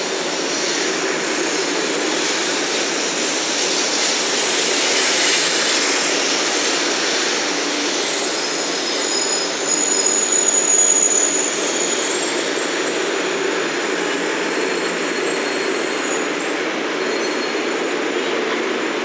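500 series Shinkansen train pulling into the platform and braking to a stop: a steady rush of running noise, with thin high-pitched squeals through the middle as it slows.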